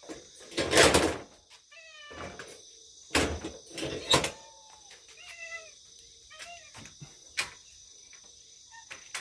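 Feral cats meowing in several short calls, some falling in pitch. Between them come several loud bursts of rustling or knocking noise, the loudest about a second in, and a sharp click near the end.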